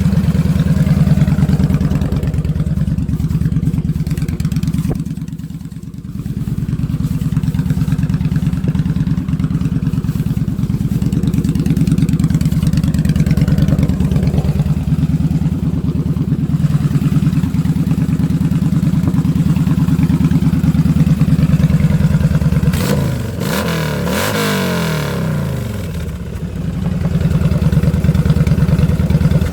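2008 Yamaha V Star 1100's air-cooled V-twin running through homemade exhaust pipes with homemade baffles. It idles steadily, with a brief rise and fall in revs around twenty-three to twenty-five seconds in.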